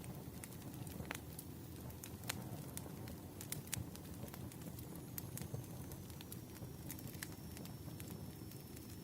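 Wood fire burning, crackling with irregular sharp pops and snaps over a low, steady rumble.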